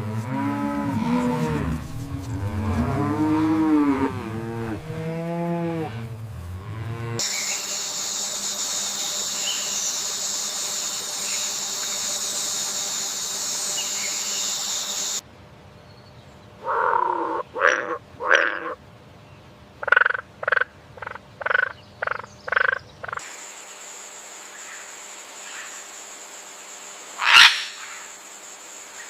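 A string of separate animal-sound clips. First come low, pitch-bending animal calls typical of cattle lowing. Then there is a steady high insect-like hiss, a run of short croaking calls, and a steady high hum broken by one sharp click near the end.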